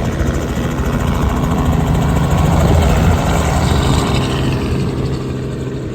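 A powered vehicle passing by: a loud, steady low engine hum that grows louder to a peak about halfway through and then fades.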